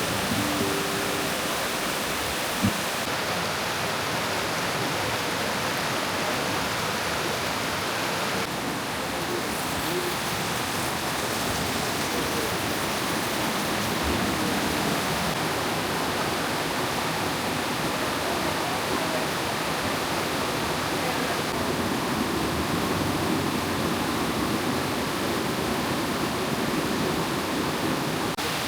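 Steady rush of flowing water, like a stream or small waterfall. The rushing changes character slightly about three seconds in and again a little after eight seconds.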